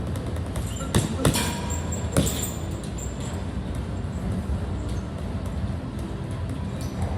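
Steady low background rumble with sharp knocks: two close together about a second in, one a little after two seconds, and a faint one near the end.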